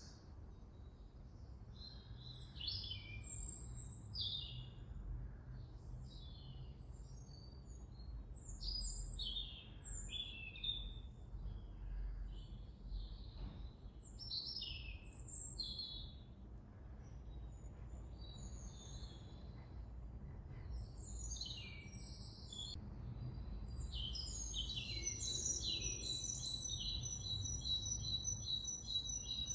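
Songbirds singing in a yard: many short chirps and whistled phrases, with a rapid trill near the end, over a faint low rumble.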